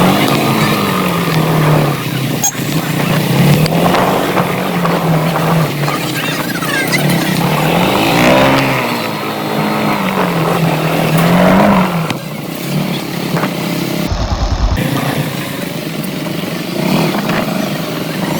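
Motorcycle engine running, its pitch rising and falling several times as it speeds up and eases off, under a loud steady rushing noise. The engine note fades out about two-thirds of the way through, leaving the rushing noise.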